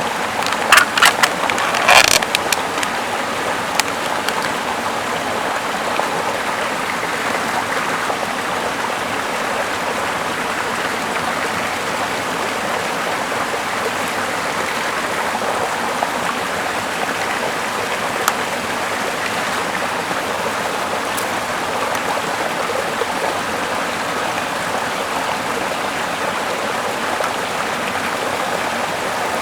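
Small river flowing steadily over rocks, a constant rushing of water. A handful of sharp clicks and snaps sound in the first couple of seconds.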